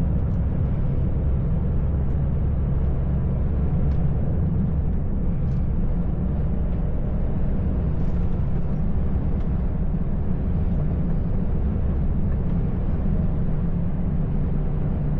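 Heavy truck driving on a snowy road, heard from inside the cab: a steady low drone of diesel engine and tyre noise, with a few faint clicks.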